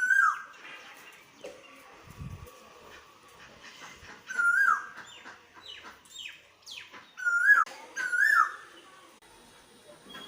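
Parrot calling: four loud whistled calls, each a held note that drops sharply in pitch at its end, with softer falling chirps in between.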